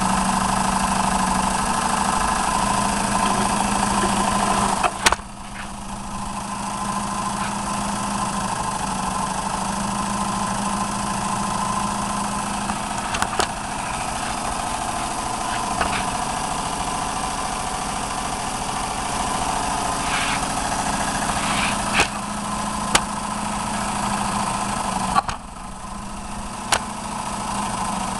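Homemade three-cylinder radial air engine with oscillating (wobbler) cylinders running steadily on compressed air. Its level dips briefly about five seconds in and again near the end, with a few sharp clicks along the way.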